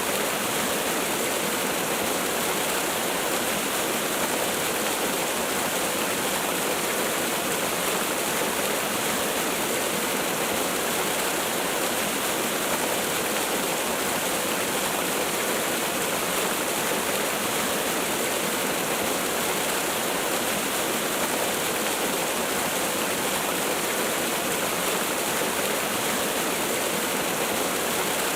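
Steady, unbroken rush of a waterfall, an even hiss of falling water with no separate splashes or other sounds.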